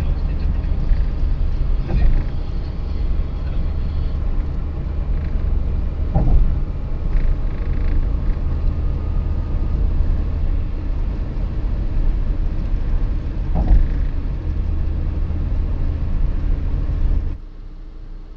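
Sandstorm wind buffeting a phone's microphone as a heavy, steady rumble, with a few sharper gusts. The rumble drops off abruptly near the end.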